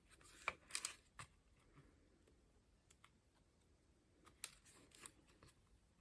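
Paper pages of a collage book being turned by hand: short dry rustles and flicks in two bunches, the first near the start and the second about four and a half seconds in.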